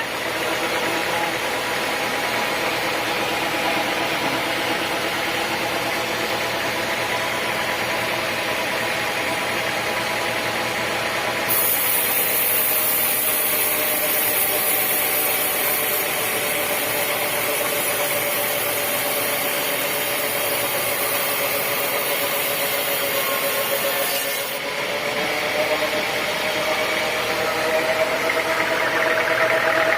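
Sawmill saw machinery running steadily with a humming tone. From about twelve seconds in to about twenty-five seconds, a loud high hiss joins it.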